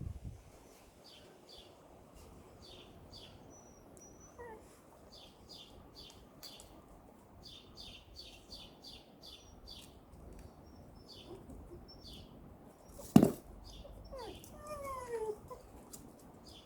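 Small birds chirping steadily in short high notes, with one sudden loud sound about two-thirds of the way through, followed by a few short falling calls.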